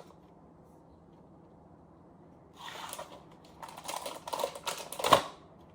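Light clicks, taps and rustling of cookie dough being set out on a baking mat on a tray, starting about two and a half seconds in, with a sharper knock near the end.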